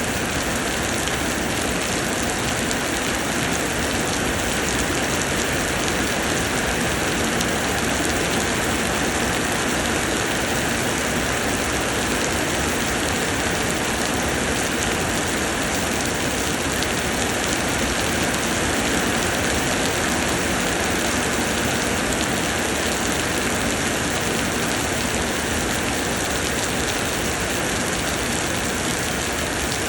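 Summer rain pouring down steadily, a dense, even hiss with no breaks or changes.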